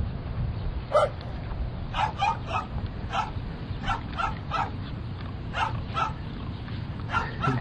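A dog barking: about a dozen short, sharp barks at uneven intervals, some in quick runs of two or three, over a steady low background rumble.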